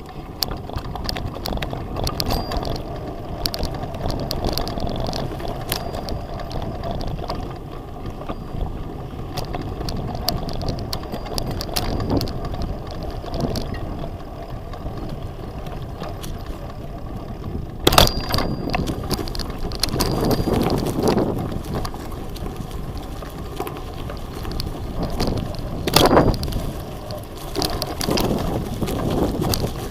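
A bicycle being ridden over a rough forest track: a steady rumble of tyres and the rattle of the frame, with scattered clicks and two sharp knocks, about halfway through and again later.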